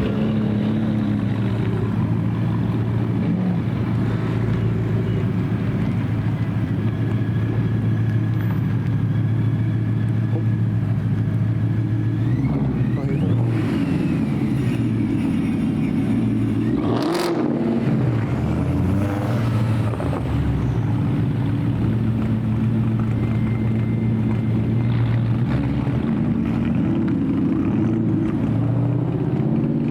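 Car engines running steadily with a deep low note, rising briefly in pitch about halfway through as one is revved, and a single sharp crack a little after.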